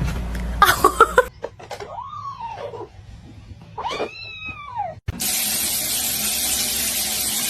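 A house cat meowing twice, each meow rising and then falling in pitch, just after a short burst of clattering clicks. A little after halfway a steady hiss of noise cuts in.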